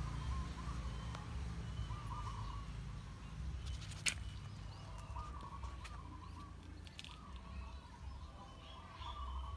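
Birds chirping in short, wavering phrases over a low rumble, with one sharp click about four seconds in.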